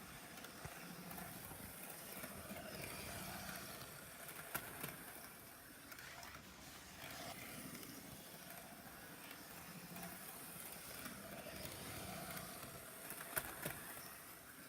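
Hornby Class 73 model locomotive running on DC on model railway track: a faint motor hum and wheel rumble that swells and fades twice as it goes round the loop, with a few sharp clicks of the wheels over rail joints or points.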